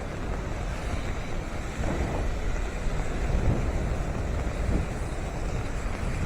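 Strong wind buffeting the microphone, a gusty low rumble over a steady outdoor rush of sea and traffic noise, with stronger gusts about two seconds in and again in the middle.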